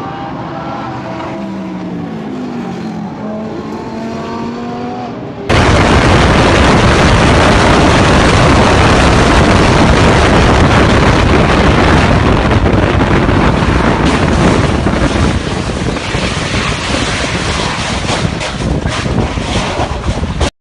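Car engines with pitch rising and falling as they rev or pass. About five seconds in, a sudden cut to a much louder, distorted rush of engine noise, typical of a race car recorded up close.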